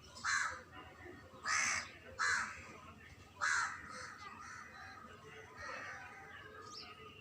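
A bird calling: four loud, harsh calls in the first four seconds, then fainter calls.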